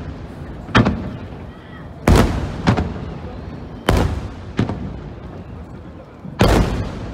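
Aerial firework shells bursting overhead: six booms over about six seconds, each trailing off in a rolling echo. The heaviest come about two seconds in and near the end.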